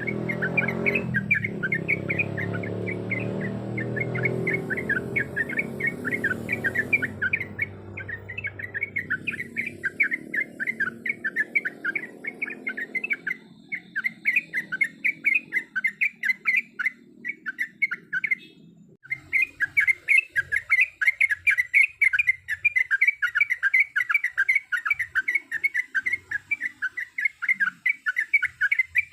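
Yellow-vented bulbul (trucuk) chirping in a fast, steady run of short notes, about five a second, with a break of about a second two-thirds of the way through. A low rumble underneath fades away over the first half.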